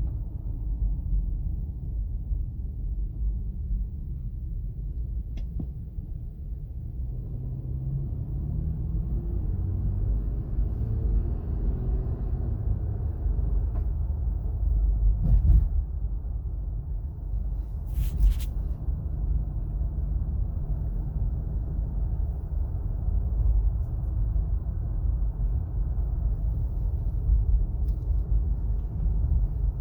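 Road and tyre rumble heard inside the cabin of a moving 2017 Acura MDX. Partway through, a faint whine rises slowly in pitch: the noise that climbs with speed, which the owner thinks comes from the front passenger side. A single thump comes about halfway through, and a short click soon after.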